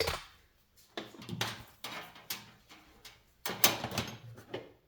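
Handling noises: a series of knocks and clunks over a few seconds, the loudest cluster about three and a half seconds in, as the fan motor and its metal parts are moved and set down.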